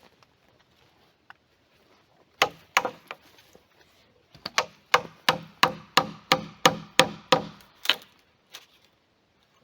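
Blows of a hand tool striking wood: two strikes, then a fast, even run of about a dozen at roughly three a second.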